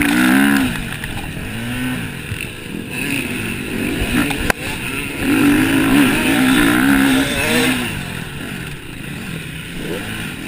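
Motocross bikes racing, their engines revving up and falling back as they pass, loudest at the start and again about halfway through, with a single sharp click about four and a half seconds in.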